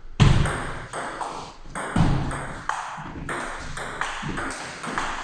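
Table tennis rally: the celluloid-type plastic ball struck back and forth by rubber-faced bats and bouncing on the table, a run of sharp irregular ticks.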